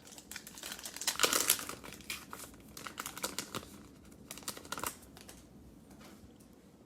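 Cellophane card-pack wrapper crinkling as it is handled and opened, a dense run of crackles for about five seconds that then dies away.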